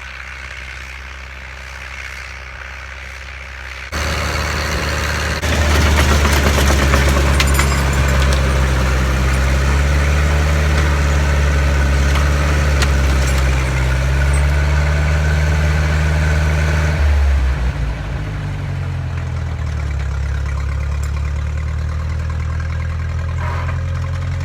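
Massey 50 tractor engine running and driving a pull-type snowblower. About four seconds in the engine gets louder, and from about five seconds a rushing, rattling blower noise joins it; at about seventeen seconds that noise drops away and the engine settles back to a lower, steady run.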